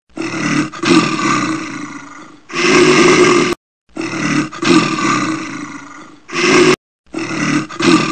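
A bear roaring and growling, the same call heard twice and starting a third time near the end. Each time is a long roar that fades off, then a shorter, louder roar.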